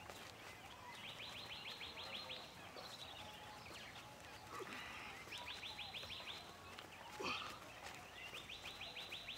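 A bird repeating a rapid, high trill of quick pulses about every four seconds, three times, over faint outdoor background sound, with a brief louder sound about seven seconds in.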